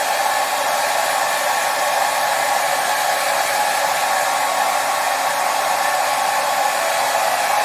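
Hair dryer running steadily, a continuous even rushing of air with the strongest part in the middle range and a faint motor tone.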